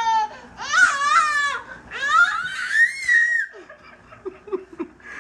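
A baby squealing in three long, high-pitched cries that rise and fall in pitch, followed by a few faint ticks near the end.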